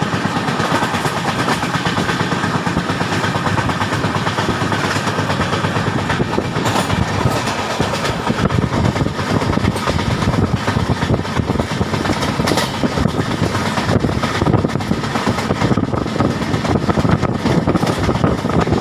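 Passenger train running on the rails, heard from aboard: a steady loud rumble of wheels and coach with a constant rattle of clicks and knocks.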